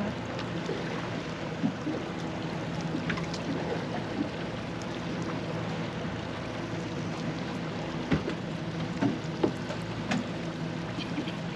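Boat engine running steadily with a low hum, water sloshing around the hull, and a few light knocks.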